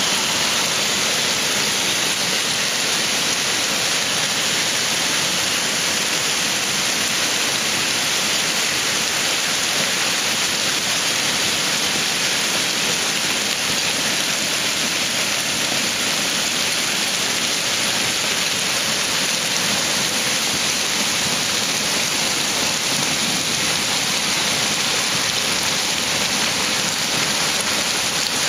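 Heavy downpour: rain pouring steadily onto lawn, pavement and trees as an even, unbroken hiss.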